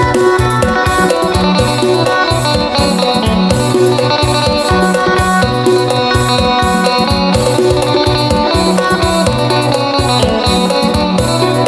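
Isan folk instrumental music: a plucked phin lute melody over the held drone of a khaen mouth organ, with a steady percussion beat.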